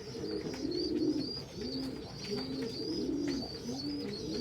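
Domestic pigeons cooing in a loft: a run of short, arched, overlapping coos, several birds at once, over a faint high wavering tone.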